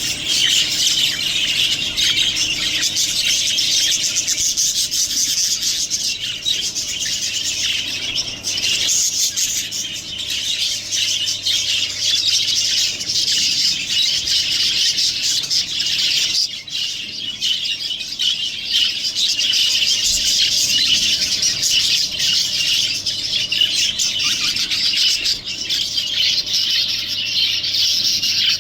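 Budgerigars chattering: continuous high warbling and chirping with no break.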